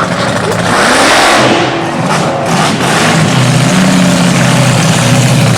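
Drag car engine revving, with a rush of hissy noise about a second in, then running on with a steady low note.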